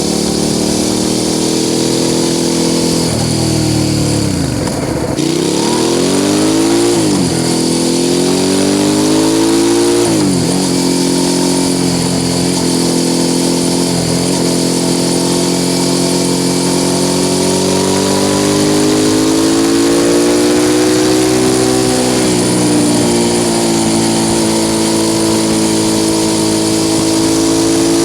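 Suzuki SV650 S V-twin through an aftermarket Mivv exhaust, ridden on the road. The revs drop sharply about four seconds in, then climb through several gears with a short dip at each shift, and pull steadily higher in the second half. Wind rush on the microphone throughout.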